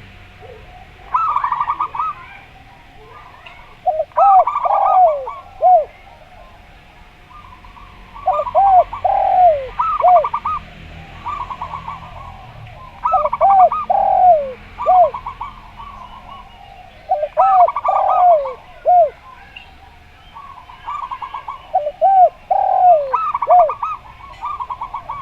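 Zebra dove and spotted dove calling together in repeated phrases, one every four to five seconds. Each phrase mixes rapid trilled coo notes with lower, arching coos that fall in pitch.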